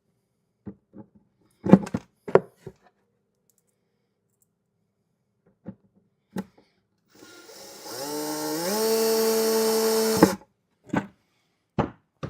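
Cordless screw gun running for about three seconds, its pitch stepping up as the trigger is squeezed, to drive a small wood screw. Short knocks of parts and tools being handled come before and after it.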